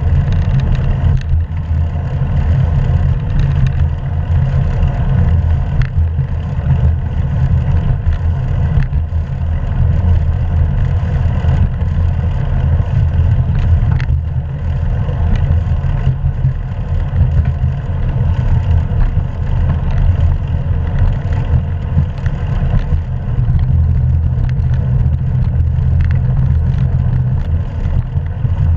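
Steady low rumble of wind and road noise on an action camera's microphone while riding a bicycle.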